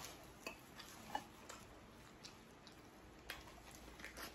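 A person eating shellfish: faint chewing with a few soft, scattered clicks and mouth smacks.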